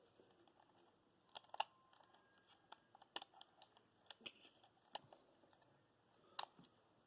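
Faint, irregular light clicks and ticks, a dozen or so scattered across the stretch, the sharpest about a second and a half in and another near the end.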